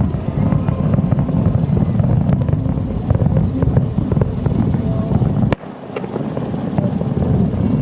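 Fireworks display heard from a distance as a dense, continuous rumble of booms with scattered sharp crackles. The rumble drops out abruptly about five and a half seconds in, then builds back up.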